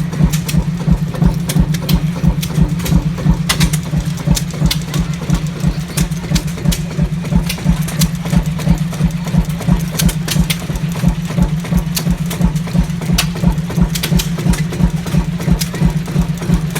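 Large Fairbanks-Morse single-cylinder two-stroke diesel stationary engine running steadily, with a big thump on each firing in an even, regular beat.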